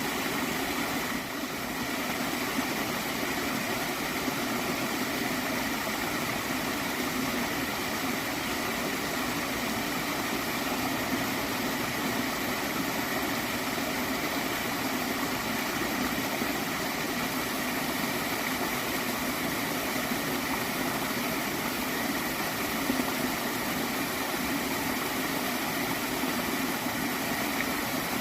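A small stream of water flowing and gurgling in a steady, unbroken rush.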